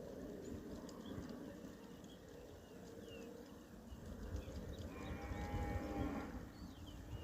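A farm animal calls once, about five seconds in, for about a second and a half, over scattered high chirps and a faint low rumble.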